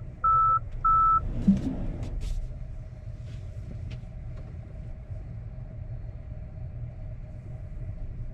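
Short, even electronic alert beeps from the Tesla Cybertruck cabin, three in the first second, at one steady pitch. After them comes a click, then the steady low rumble of the truck moving, heard from inside the cab.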